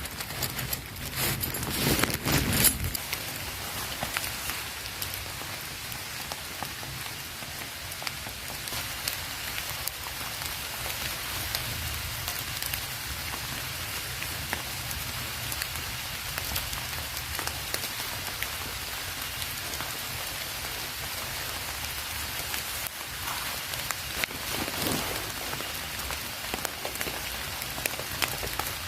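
Heavy rain falling steadily, a dense patter of drops hitting surfaces, with a few louder knocks in the first few seconds.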